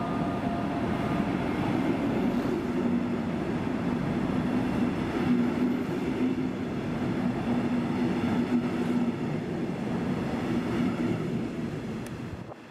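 Locomotive-hauled double-deck regional train running past the platform: steady rumble of wheels on the rails with a humming tone in the middle, fading away near the end as the last coach clears.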